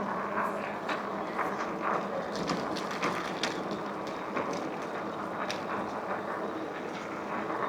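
Electric bike under way: a steady low motor hum under road and wind noise, with scattered small clicks and rattles.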